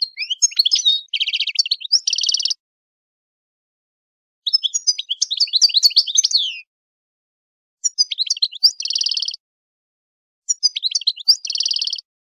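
A songbird singing four phrases, each about two seconds of quick, varied high chirps that end in a buzzy trill, with complete silence between the phrases.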